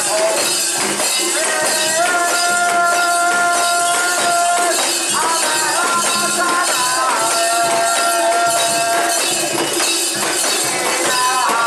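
Japanese festival music: a melody of long held notes that bend in pitch at their starts, over a constant metallic jingling and rattling.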